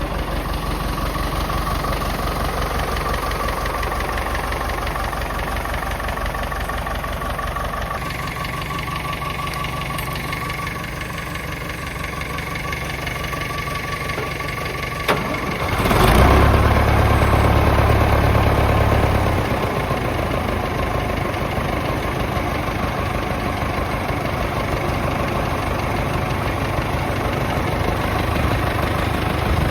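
Nuffield 10/60 tractor's four-cylinder diesel engine idling steadily. A sharp click about halfway through is followed by a louder, deeper stretch of a few seconds before the idle settles back.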